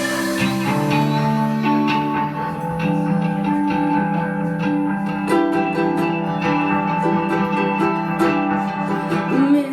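Live indie rock band playing an instrumental passage without vocals: a guitar picks out sustained, ringing notes that change every second or so, with little or no drumming.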